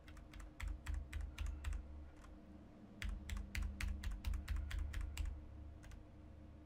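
Typing on a computer keyboard: quick runs of key clicks, one in the first two seconds and another from about three to five seconds in.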